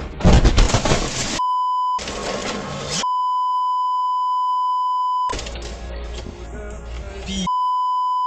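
Censor bleep: a steady, high electronic tone cutting in three times, the middle one about two seconds long, over the in-car audio. A loud, noisy burst comes right at the start.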